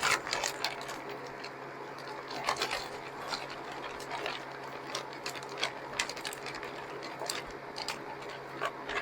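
A steady low hum with scattered light clicks and taps, as of trays and containers being handled.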